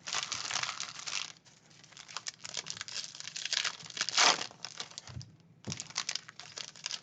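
Foil wrapper of a baseball card pack crinkling and tearing as it is opened, in several rustling bursts with short pauses between them.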